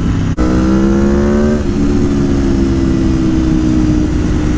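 Aprilia Tuono V4 Factory's V4 engine pulling under way on the motorcycle: the revs climb for about a second, drop at a gear change about a second and a half in, then hold with a slowly falling pitch.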